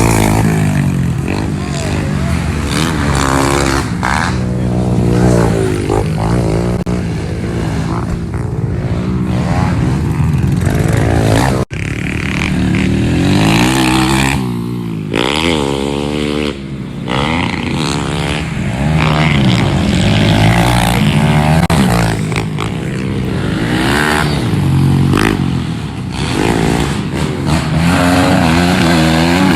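Several pit bike engines racing, their pitch climbing and falling over and over with throttle and gear changes, more than one engine note overlapping at times. The sound cuts out for an instant about twelve seconds in.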